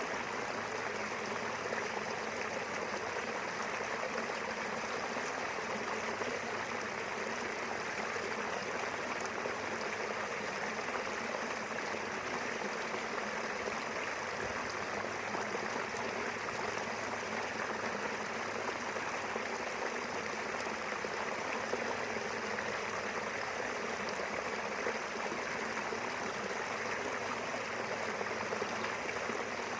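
A small river running steadily, a constant even rush of flowing water.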